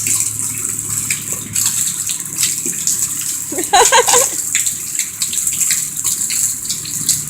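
Steady rain falling, an even hiss of water, with a short wavering call about halfway through.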